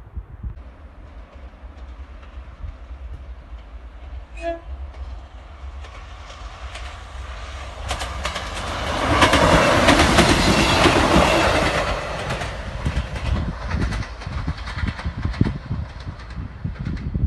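Class 158 diesel multiple unit giving a brief horn toot about four seconds in, then passing close by with its engine running and its wheels clicking over the rails. It is loudest around ten seconds in and then fades away. Wind buffets the microphone throughout.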